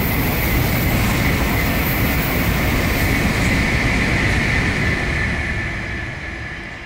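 Sotetsu electric commuter train running into the platform and slowing, a heavy rumble with a steady high-pitched squeal on top, fading near the end as it comes to a stop.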